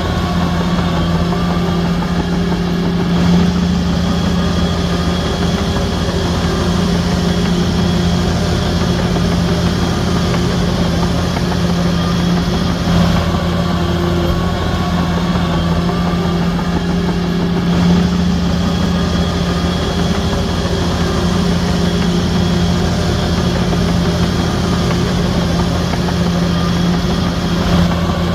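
Heavy diesel engine of earthmoving machinery running steadily at an even pitch, with a slight swell in level now and then.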